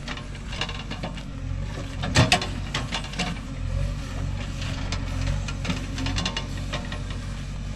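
JCB 3DX backhoe's diesel engine running steadily while digging stony ground, with scattered knocks and scrapes. The loudest knock comes about two seconds in.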